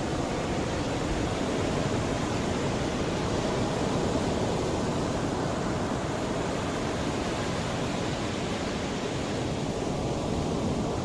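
Mediterranean sea waves washing in: a steady rushing surf with a slight swell a few seconds in.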